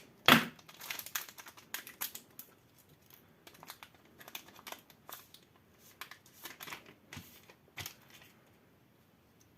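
Foil wrapper of a trading-card booster pack crinkling in the hands as it is torn open, a string of irregular crackles.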